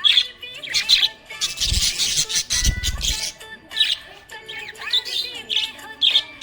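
Budgerigar chirping and warbling in a run of short, quick calls, with a brief low rumble about halfway through.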